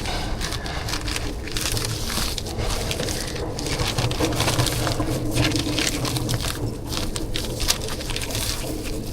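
Crackling, crunching handling noises as a sticky rice portion is made up and packed, with many small irregular clicks over a steady low hum.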